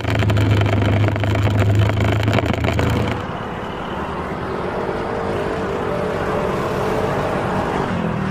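Motor vehicle engines and street traffic. A steady low engine hum stops about three seconds in, giving way to quieter road noise with a faint engine tone that rises and falls.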